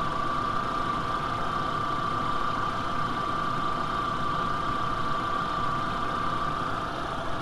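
VW Mk IV Golf 2.0-litre four-cylinder engine idling steadily, with a steady high-pitched tone over it. It is running while the cooling system is topped up and bled after a thermostat replacement.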